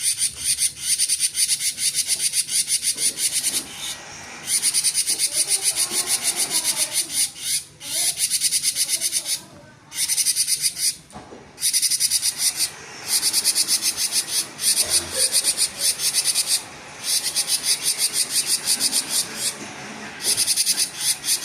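Cinereous tit (gelatik batu) singing a fast, buzzy, stuttering trill in the 'konslet' style. The song comes as rapid high-pitched pulses in runs of a few seconds, broken by short pauses.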